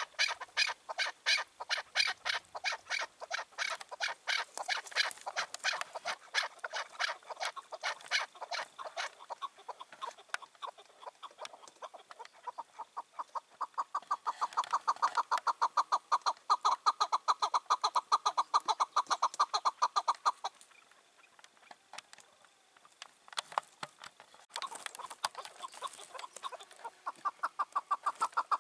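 Chukar partridge calling: long runs of rapid, repeated chuk notes that speed up for a stretch, break off briefly, then start again near the end.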